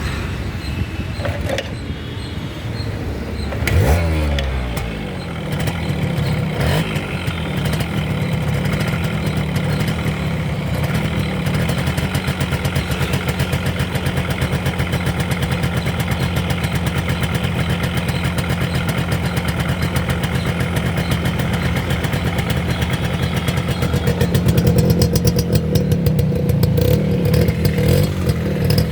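1992 TVS Supra's engine and exhaust, with a brief surge and change of pitch about four seconds in, then running steadily with a fast, even exhaust beat. It grows a little louder near the end.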